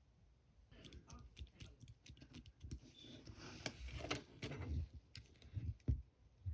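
Slime being squished and stretched by hand, giving a dense run of crackly clicks and small wet pops that begins about a second in.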